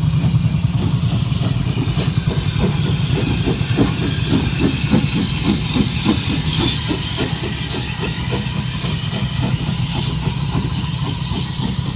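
An engine running steadily with a fast low pulse, with a regular beat of sharper knocks about three times a second through the middle, over some hiss.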